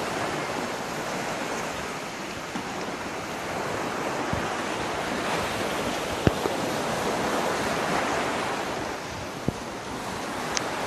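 Steady rush of falling water from a waterfall, with a few short sharp clicks over it.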